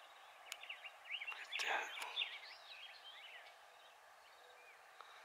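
A songbird singing a quick run of short chirping notes, with a brief rustle about one and a half seconds in.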